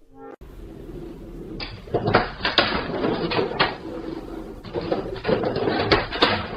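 A rapid, irregular series of knocks and clatters, like hard objects being banged and rattled.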